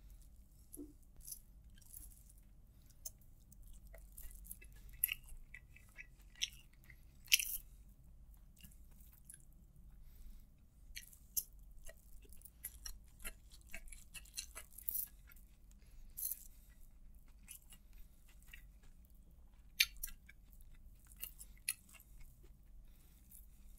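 Chewing of hand-fed fried rice (nasi goreng), with many short, faint wet mouth clicks and crackles scattered throughout.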